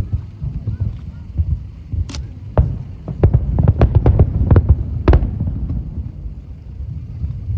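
Fireworks display: a steady run of deep booms from aerial shells bursting, with a cluster of sharp cracking reports from about two to five seconds in.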